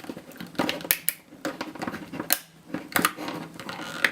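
Hard plastic case of a laptop battery pack being pried open at the connector port, with irregular sharp cracks and clicks as the plastic gives.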